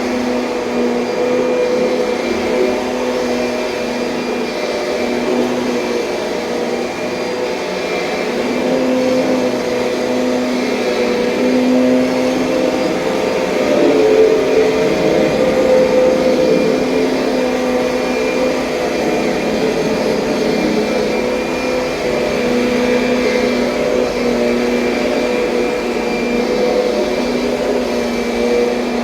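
2007 Kirby Sentria upright vacuum cleaner running steadily with a humming motor tone, a little louder about halfway through.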